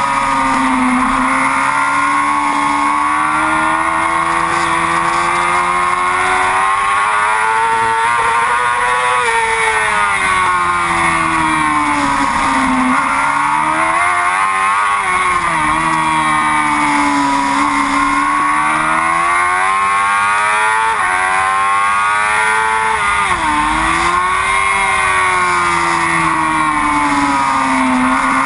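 Yamaha R6 racing motorcycle's inline-four engine held at high revs under racing load, its pitch rising and falling continuously with throttle and gear changes, with a few sharp drops and recoveries.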